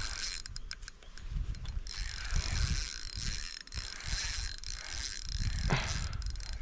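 Fishing reel being wound in against a hooked fish, a steady mechanical ratcheting whir, with irregular low rumbling from handling of the rod and reel.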